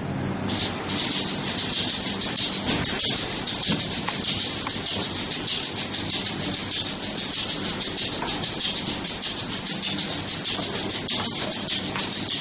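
Maracas shaken in a steady, even rhythmic pattern, starting about half a second in.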